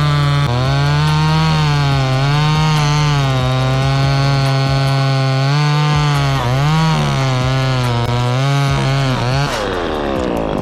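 Two-stroke chainsaw cutting wood at high revs, its pitch dipping and recovering as the chain loads up in the cut. Near the end it drops off the throttle and winds down toward idle.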